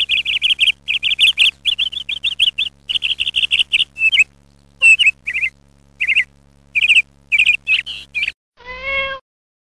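A bird chirps in quick runs of short, high, warbling notes, broken by a few pauses, and stops abruptly about eight seconds in. It is followed by one short meow.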